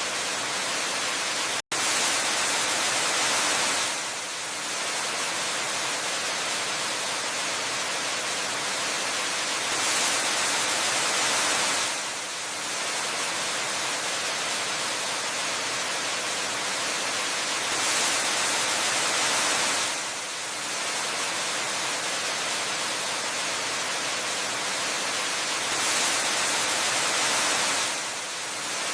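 Waterfall ambience: a steady, hissing rush of falling water that swells slightly about every eight seconds. There is a split-second gap in the sound near the start.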